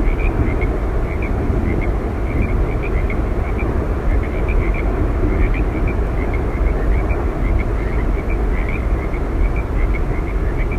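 Steady rushing roar of Yosemite Falls, a dense, unbroken water noise heaviest in the low end, with faint short chirps scattered high above it.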